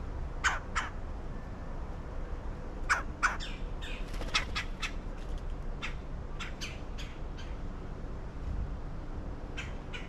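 Birds calling in short, sharp notes: two near the start, a quick run of many from about three to seven and a half seconds in, and a couple more near the end.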